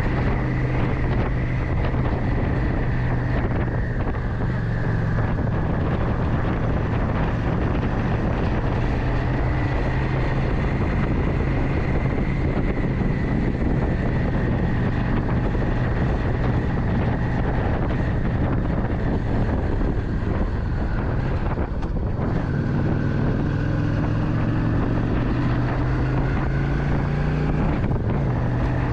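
Motorcycle engine running steadily while riding, with heavy wind noise on the microphone. About two-thirds of the way through, the engine note dips briefly and changes pitch.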